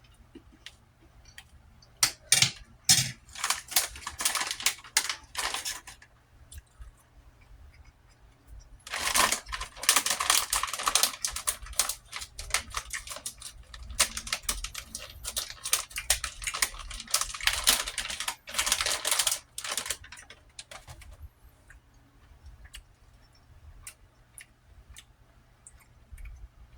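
Close-miked eating: rapid crackly clicks of chewing and mouth noise, in a burst of a few seconds near the start and a longer burst of about ten seconds in the middle, with faint scattered ticks between.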